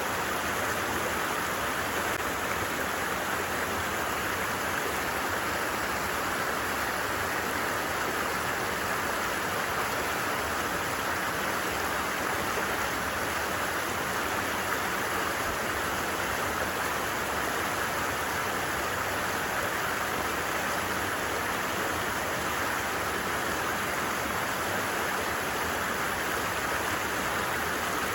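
Stream flowing over stones, a steady, unbroken rush of water.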